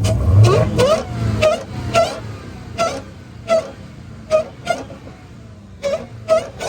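Car engine blipped once near the start, then running low under a string of short, sharp pops, about one or two a second.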